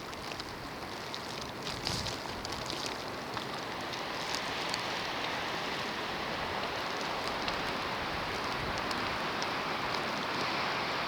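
Snowstorm: a steady rush of wind-driven snow that grows slightly louder, with scattered small ticks in the first half.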